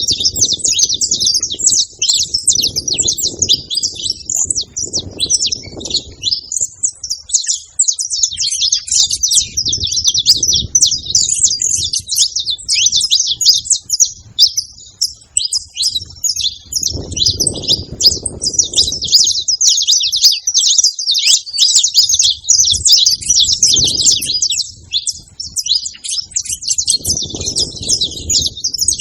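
Saffron finches singing, a dense, unbroken run of rapid high chirps and trills. A low rumble comes and goes underneath every few seconds.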